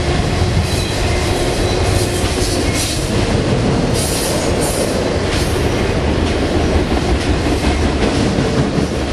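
Union Pacific double-stack container train rolling past: a steady, loud rumble of steel wheels on rail, with irregular clacks as the well cars pass.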